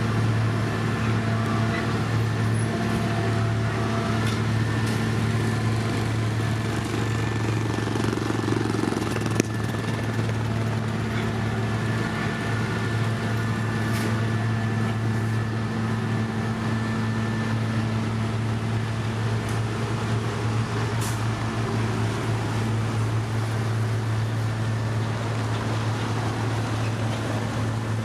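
Heavy construction machine's engine running steadily with a low, even drone, with a few sharp clicks or knocks, the clearest about nine seconds in.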